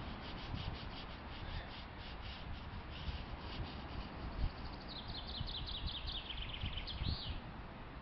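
Wild birds calling in the pine trees. First comes a string of short, sharp notes. About five seconds in, a bird sings a quick run of notes that falls steadily in pitch and ends in a short flourish.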